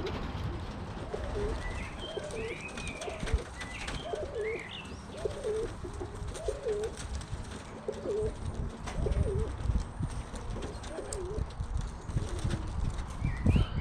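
Domestic racing pigeons cooing, about a dozen coos one after another at roughly one a second. There are a few higher chirps between about two and five seconds in.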